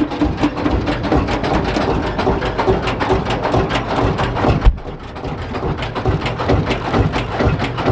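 Lanz Bulldog's single-cylinder two-stroke hot-bulb engine idling, a fast, even run of knocks. One sharper, louder bang comes a little past the middle, and then it runs briefly quieter.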